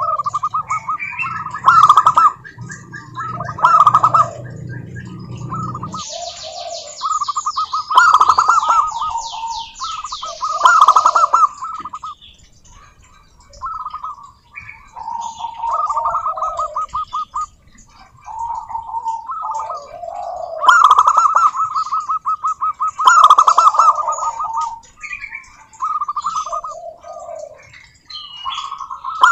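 Zebra doves singing, repeating rapid staccato cooing phrases, with phrases overlapping as if more than one bird. About six to eight seconds in, a quick run of high-pitched chirps joins them. A low hum sits under the first six seconds.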